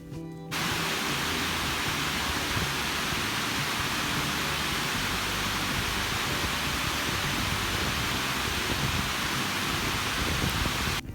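Heavy rain falling, a steady dense hiss that cuts in suddenly about half a second in and cuts off abruptly near the end.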